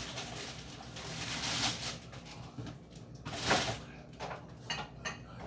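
Rummaging through a refrigerator: rustling and handling noises as items are moved about, with a louder rustle about three and a half seconds in and a sharp knock at the very end.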